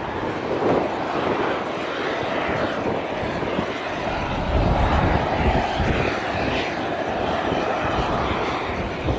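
Airliner engine roar from a passing aircraft, louder around the middle, with gusts of wind buffeting the microphone.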